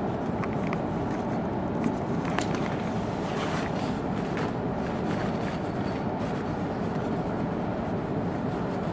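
Steady running noise inside an E2 series Tohoku Shinkansen car, a continuous low rumble and rush from the wheels and air, with a few faint ticks.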